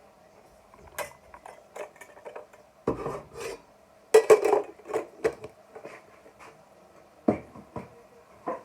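A spoon stirring curry in a cooking pan, scraping and knocking against the pan in irregular bursts, loudest about four seconds in, over a faint steady hum.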